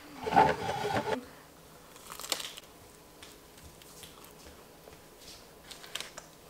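Close-up chewing of barbecue chicken pizza, loudest in the first second, then quieter crunches and clicks as a piece of crust is torn off over rustling parchment paper.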